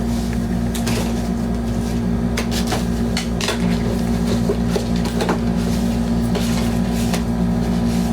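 Scattered light clicks and knocks, irregularly spaced, over a steady low hum.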